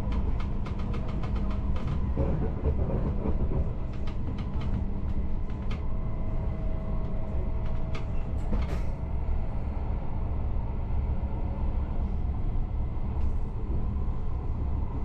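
Passenger train running along the track, heard from inside the carriage: a steady low rumble, with a quick run of sharp clicks in the first couple of seconds and a few single ticks later on.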